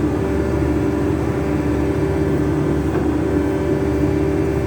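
Outrigger shrimp trawler's machinery running on deck: a loud, steady drone with a constant hum and no change in pitch.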